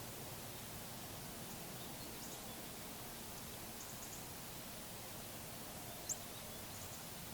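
Steady faint background hiss of outdoor ambience with a few brief, high-pitched bird chirps, the loudest a single sharp chirp about six seconds in.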